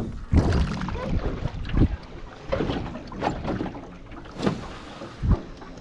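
Irregular knocks and bumps of a small boat being handled at the water, with wind buffeting the microphone.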